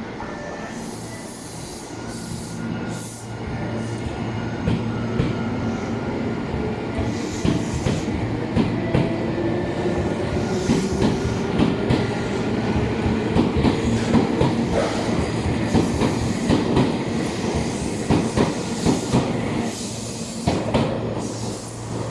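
Tobu Railway electric train moving through the station platform, its motor whine rising in pitch as it gathers speed. Wheels clatter over the rail joints, building through the middle and dropping away near the end.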